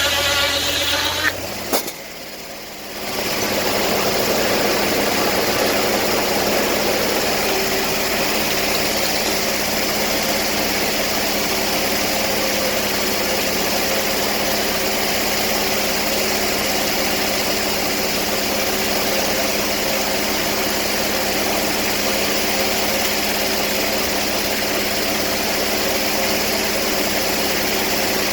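Portable sawmill's engine running steadily, cut short by a sharp click and a brief dip about two seconds in, then running steadily again.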